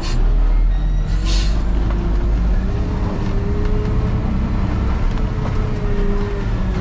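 Peterbilt truck's diesel engine running steadily under way, its pitch rising slowly for a few seconds and then holding. A short hiss of air comes about a second in.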